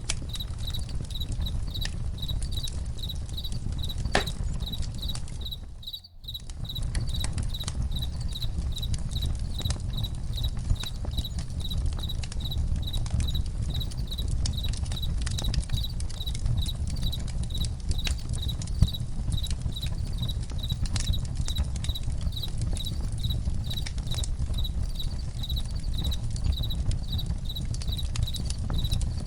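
Campfire crackling and popping, with crickets chirping in a steady, even rhythm over it. The whole soundscape briefly drops out about six seconds in.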